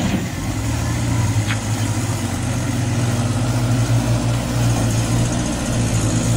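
Engine idling steadily, with one short tick about one and a half seconds in.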